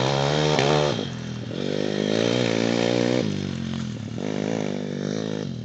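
Pit bike's small single-cylinder four-stroke engine revving in three surges: one at the start, a longer one from about one and a half to three seconds in, and another about four seconds in. Each time the pitch climbs and falls with the throttle.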